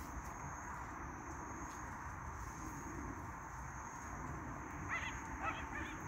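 Steady outdoor background with a thin high-pitched whine, and three or four short harsh bird calls about five seconds in.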